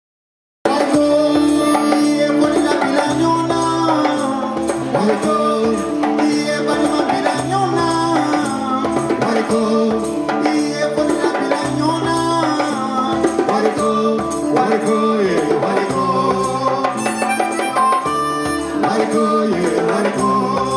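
Afro-fusion band playing live: sustained melodic lines over a rattling percussion instrument keeping a fast, even beat. The music cuts in abruptly under a second in.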